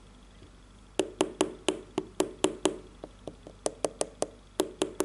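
A rapid series of sharp taps on the sole of an Air Jordan 13 sneaker, about four a second, each with a short hollow knock. They start about a second in and pause briefly midway.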